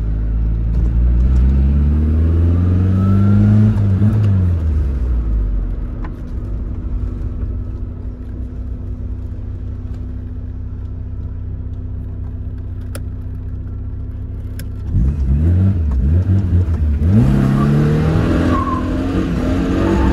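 Tofaş Doğan SLX engine revved up and dropping back, then idling steadily for several seconds, then revved hard again several times from about fifteen seconds in.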